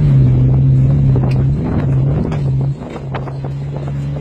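Race car engine running at a steady high pitch, dropping off briefly about two and a half seconds in, then picking up again.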